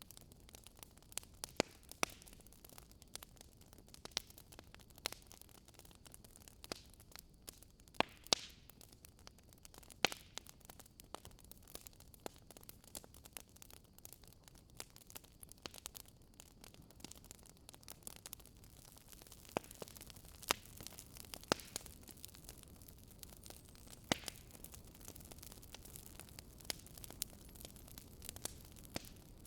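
Campfire burning: irregular sharp crackles and pops from the burning wood over a faint steady hiss of the flames.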